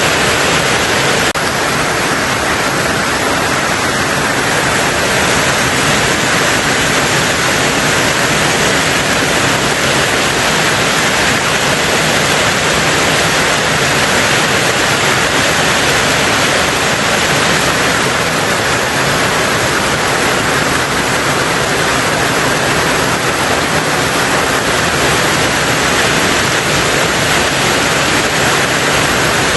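Heavy rain falling on a tin roof, a dense, steady hiss of drops with no let-up.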